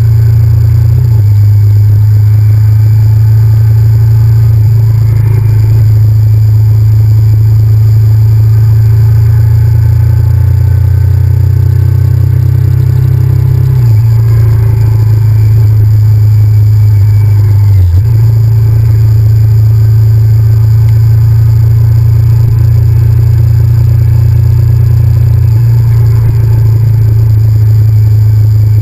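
Honda VTR1000F's V-twin engine running steadily on the road, heard loud and low through the bike-mounted camera. The drone steps in pitch a few times as the rider changes throttle or gear, with a brief dip about two-thirds of the way through.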